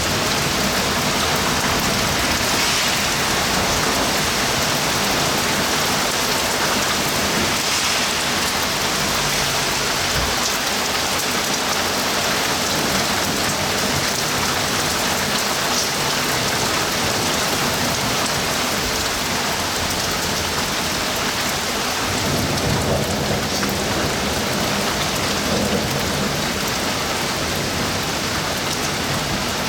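Heavy summer thunderstorm rain falling steadily in an even downpour, with a low rumble of thunder past the middle.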